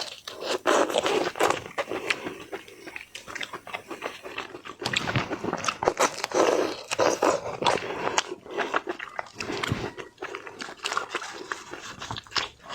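Close-miked eating of seafood: a person biting into and chewing shellfish, with repeated crunches and wet clicks at an irregular pace.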